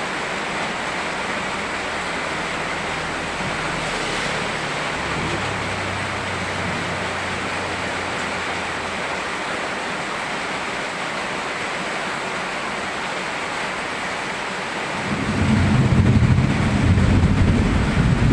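Steady rain falling. About fifteen seconds in, a deep low rumble swells up and carries on to the end.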